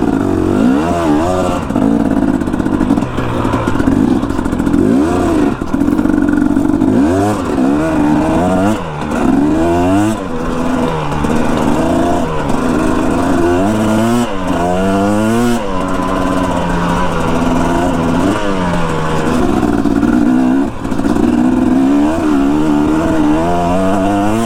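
Dirt bike engine running under way, its pitch rising and falling again and again as the throttle is worked.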